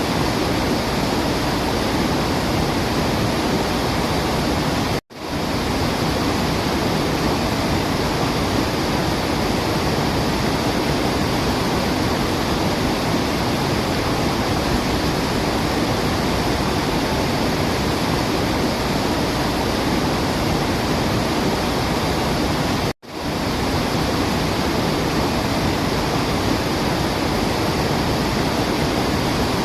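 Waterfall rushing in a steady, even roar of falling water. It cuts out abruptly for an instant twice, about five seconds in and again about 23 seconds in, then swells straight back, as at the joins of a looped recording.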